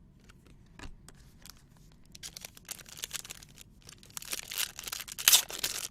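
Trading-card pack wrapper being torn open and crinkled, with a few light clicks of handling first; the crinkling grows louder over the last couple of seconds.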